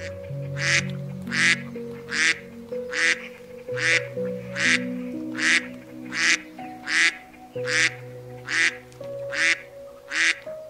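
Mallard ducks quacking in a steady series of about thirteen evenly spaced quacks, over soft piano music.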